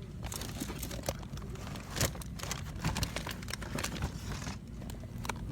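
Handling noise: an irregular run of crinkles and clicks, like plastic toy packaging being picked up and moved about, over a low steady store hum.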